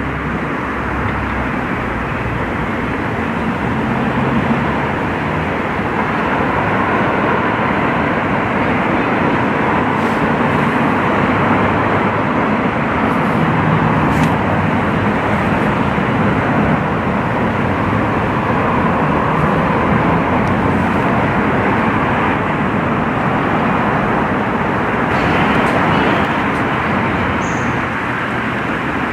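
A train running past on the rails: a steady, loud wheel-on-rail noise, with a low engine hum near the start.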